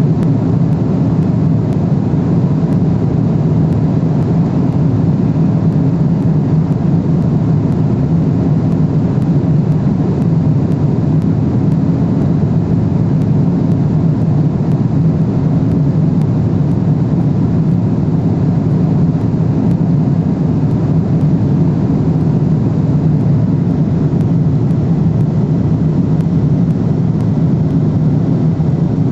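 Steady cabin noise of a Boeing 777-300ER airliner in cruise: an even, low-pitched noise of engines and airflow that does not change.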